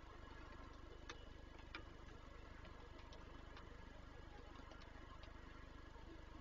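Faint raindrops ticking irregularly on the nest box, a few sharp ticks scattered over several seconds, over a steady low hum.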